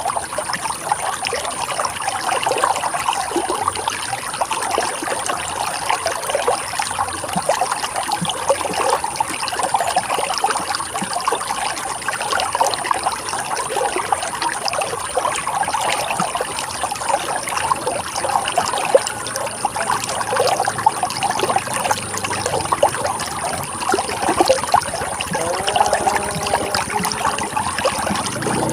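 River water running and babbling steadily over rocks, a dense even trickling and splashing.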